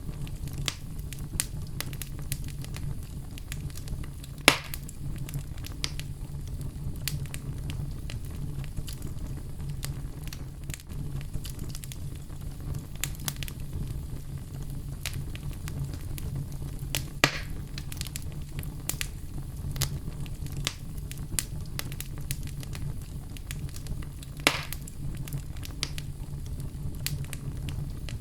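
Oak logs burning in a fireplace: a steady low rumble of flame with frequent small crackles and three louder pops.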